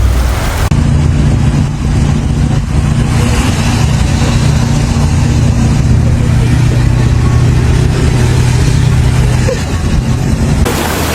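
A motor vehicle's engine running with a steady hum that drifts a little in pitch, under an even hiss of noise. It begins abruptly just under a second in and stops near the end.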